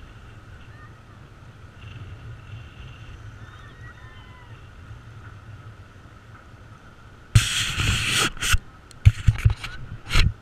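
A low, steady rush of river water and wind heard from a raft. From about seven seconds in, a series of loud, rushing noisy bursts breaks in: a long one first, then several short ones.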